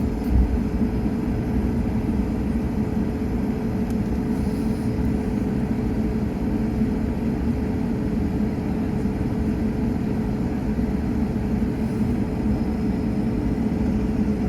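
Airbus A220 cabin noise while taxiing: a steady low rumble from the engines at low thrust and the cabin air, with a constant hum and a small knock just after the start.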